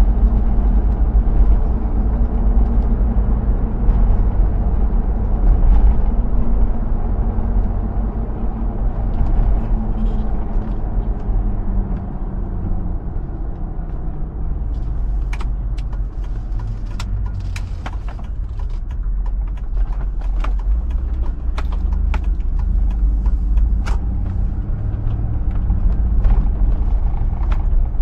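2005 Hummer H2's 6.0-litre V8 running with road rumble while driving; the engine note drops about a third of the way in and stays lower as the truck eases off. In the second half, scattered sharp clicks and knocks sound over the rumble.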